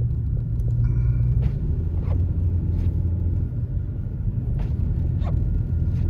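Steady low rumble of a 2021 Toyota Tacoma's engine and tyres, heard from inside the cab while driving, with a few faint clicks now and then.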